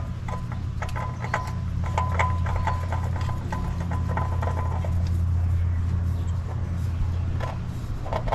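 Spin-on oil filter being threaded on by hand, giving many small clicks and light scrapes, over a steady low hum.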